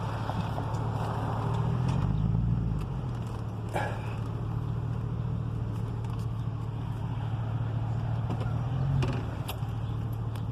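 A car engine running with a steady low hum, swelling briefly about two seconds in and again near the end as the vehicle moves.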